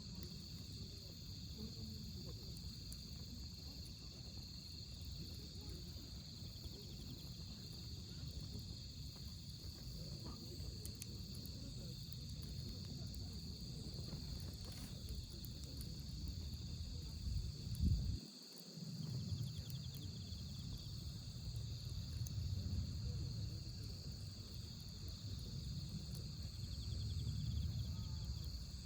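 Crickets chirring steadily, over a low rumble and occasional faint crackles from a wood fire. There is one loud thump about 18 seconds in.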